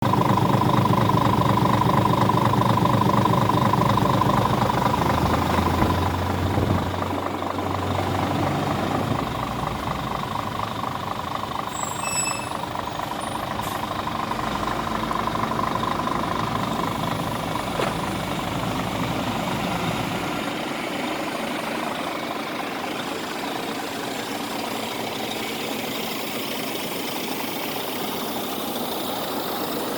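Scania R 450 truck's 13-litre inline-six diesel engine running, louder for about the first six seconds, then settling into a steadier, quieter run.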